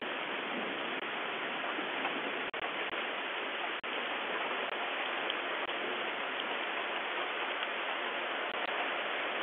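Rain falling steadily in a dense hiss with scattered drop patter, heard through a Ring doorbell camera's microphone. The audio cuts out for an instant twice in the first half.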